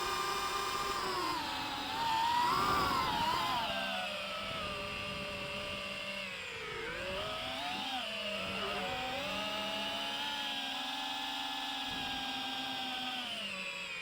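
DJI FPV drone's motors and propellers whining, the pitch rising and falling as the throttle changes. The sound is loudest about two to three seconds in, and the pitch dips briefly past the middle.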